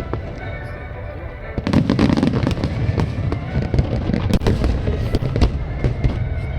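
Aerial fireworks shells bursting in a dense barrage, many bangs and crackles overlapping; the barrage thickens sharply about a second and a half in.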